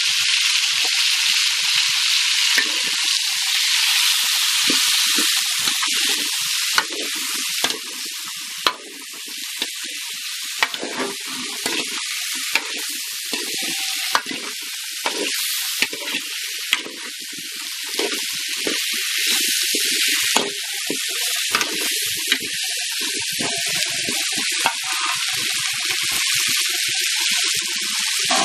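Sliced raw green mango frying in a metal kadai, sizzling steadily, while a metal slotted spatula stirs the pieces with frequent irregular scrapes and clinks against the pan.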